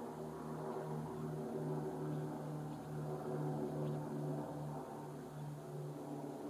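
A steady low drone of a motor or engine running, with a slow, regular pulsing about twice a second.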